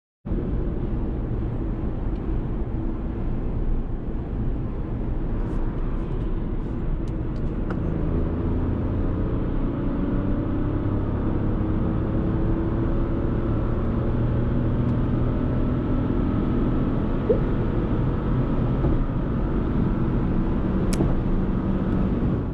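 Fiat Tipo's 1.0-litre turbocharged three-cylinder petrol engine running steadily while driving, with road and tyre noise. The engine note rises gradually through the second half as the car picks up speed.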